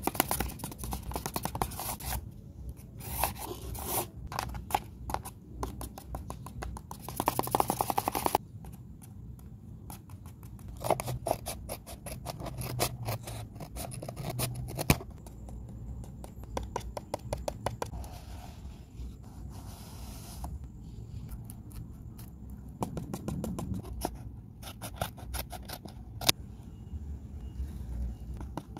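Paper rustling and crinkling as handmade paper toys and notebook pages are handled: a dense run of small crackles and scrapes, with louder stretches early on and a few sharp single clicks.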